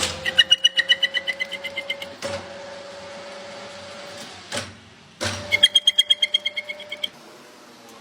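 Small CNC machine running: a steady motor whine that rises slightly as it spins up, with two stretches of rapid, even ticking at about ten a second. A few sharp clicks fall where the motor stops and restarts, about halfway through.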